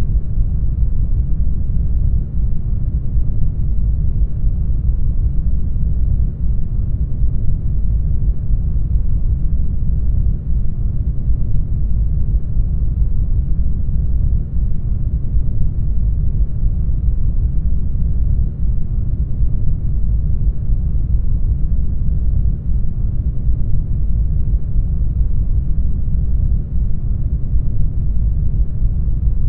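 Brown noise: a steady, deep rumbling hiss with most of its energy in the bass. It is even throughout, with no tones or events.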